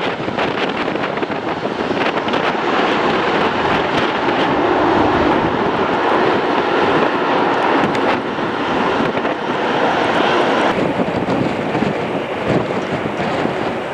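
Jet airliner engines from an arriving Airbus A321, heard as a steady rushing noise that swells through the middle and falls away about three-quarters through, with wind buffeting the microphone.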